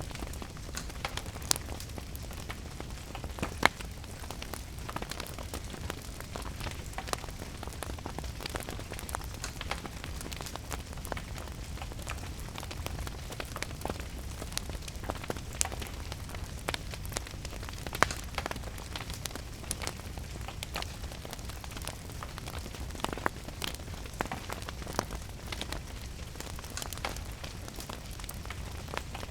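Wood fire crackling in a fireplace, with irregular sharp pops, a few louder than the rest, over steady rain.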